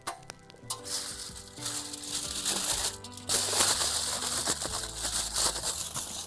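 Loud crinkling, rustling noise with a short break about three seconds in, over soft background music.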